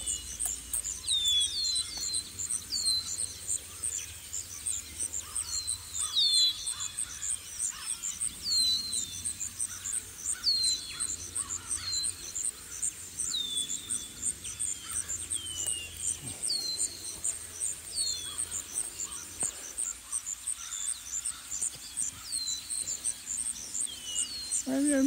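Small birds calling: short, high chirps that fall in pitch, every second or two, over a continuous, very high-pitched pulsing that repeats several times a second.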